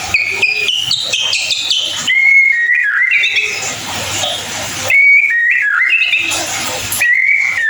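White-rumped shama singing: a quick run of short, stepped whistled notes in the first two seconds, then clear whistles that slide down in pitch, repeated about every two to three seconds.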